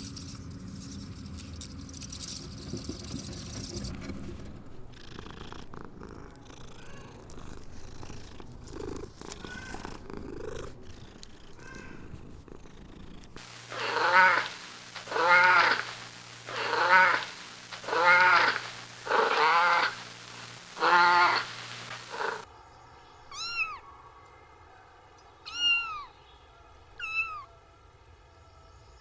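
Cat meowing: six loud, drawn-out meows about a second and a half apart, then after a change in sound several shorter, higher-pitched kitten mews. The first part is quieter, with faint rustling and clicks.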